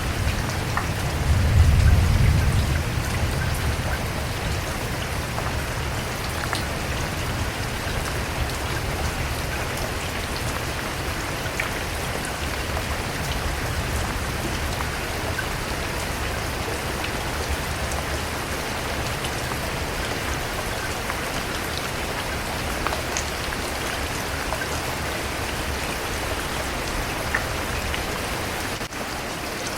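Steady rain falling and pattering on surfaces. A low rumble of thunder swells about two seconds in and then fades away under the rain.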